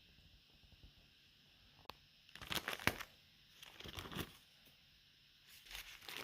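Close-miked eating of carne asada fries: three short bursts of crackly crunching and chewing.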